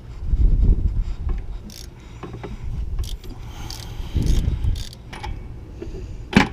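Ratchet wrench with a 10 mm socket turning a bolt out in a few short bouts, with scattered metal clicks and one sharp click near the end.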